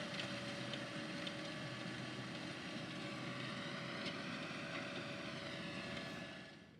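Heavy diesel farm machinery running steadily in the field, with a few faint clicks. The sound fades out near the end.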